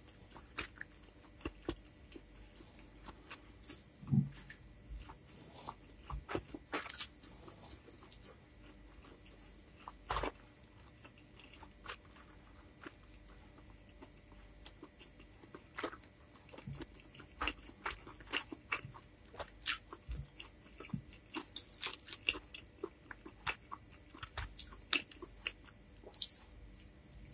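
Close-miked chewing of spicy chicken fried instant noodles wrapped in white bread: irregular wet mouth sounds, lip smacks and soft clicks of biting and chewing.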